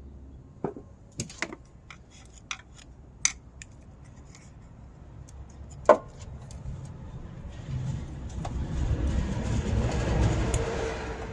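Sharp plastic clicks and knocks from hands working an ignition coil's electrical connector loose, the loudest about six seconds in. In the second half a low rumbling noise swells up and peaks near the end.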